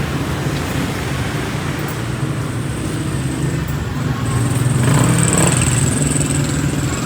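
Street traffic: a vehicle engine running steadily, growing louder about four to five seconds in, with a thin high whine joining at about the same time.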